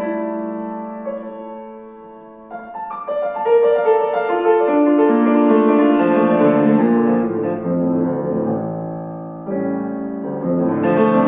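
Piano playing classical music: a held chord fades away over the first two seconds or so, then the playing picks up again and grows louder, dips softly near the end and swells once more.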